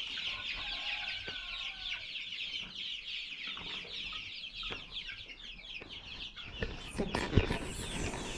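A flock of six-week-old young poultry peeping continuously, many short, high, falling calls overlapping. A few lower calls come about a second in, and some low thumps near the end.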